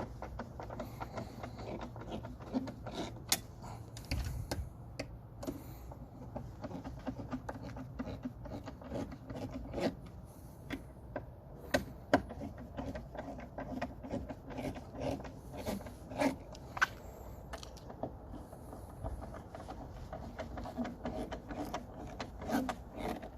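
Irregular clicks, taps and light rattles of hands working on plastic car trim, with a handful of sharper clicks.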